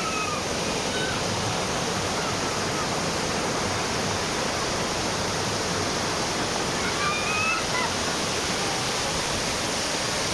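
Waterfall: a steady, unbroken rush of falling water. A few faint high calls rise and fall over it at the start and again about seven seconds in.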